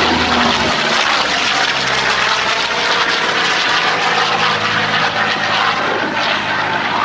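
Yak-9 with an Allison liquid-cooled V12 engine flying a display pass under power. Its engine and propeller make a loud, steady drone.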